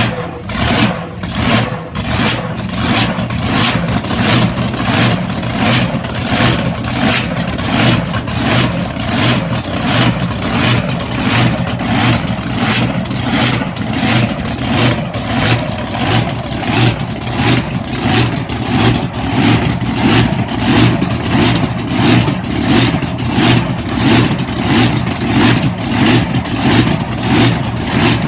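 Blown, injected big-block V8 drag boat engine idling with an even, rhythmic lope that swells about twice a second.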